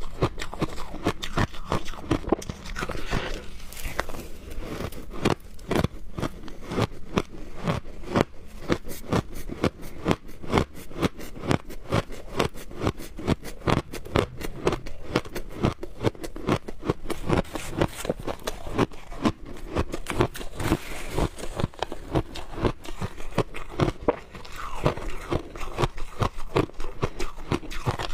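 Frozen shaved ice being bitten and chewed close to the microphone: a rapid, continuous run of sharp crunches and cracks.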